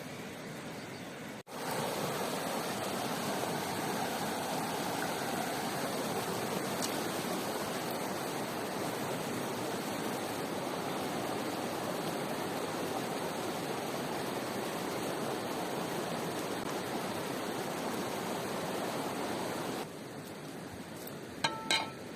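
Rushing river water: a steady, even rush that starts abruptly about a second and a half in and cuts off a couple of seconds before the end. Near the end, two short, sharp high-pitched sounds follow over a quieter background.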